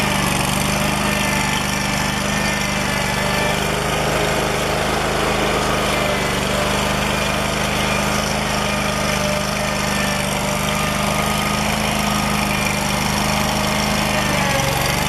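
Engine of a Toro Dingo TX427 walk-behind compact track loader running steadily, its pitch dropping slightly near the end.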